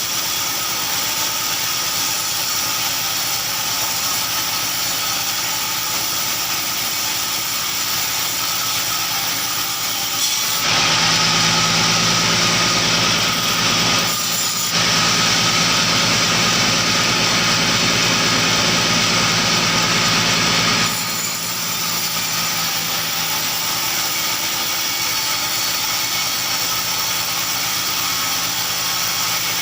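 An engine-driven saw running steadily, growing louder and harsher for about ten seconds from about a third of the way in as it cuts through wood, with a brief dip partway through the cut.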